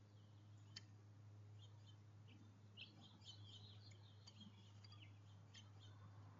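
Small songbirds chirping faintly: a quick run of short, high chirps in the middle, over a steady low electrical hum.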